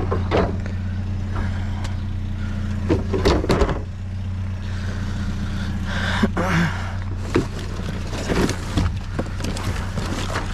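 A vehicle engine idling with a steady low hum, while junk is handled and dropped in a series of irregular knocks and rattles, thickest about three seconds in and again near the middle.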